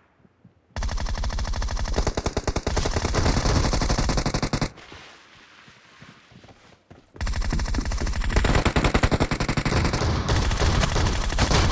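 Automatic gunfire in a shooter video game: two long bursts of rapid shots with a short pause between them.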